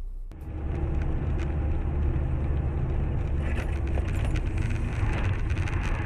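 A moving car's engine and road noise as a steady low rumble, starting suddenly about a third of a second in, with scattered small clicks and rattles.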